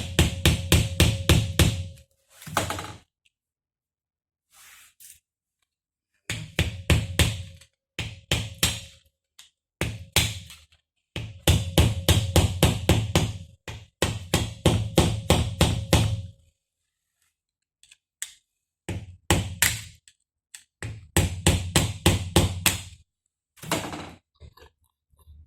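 Rapid hammer blows on metal, about six a second, in runs of one to three seconds with short pauses between.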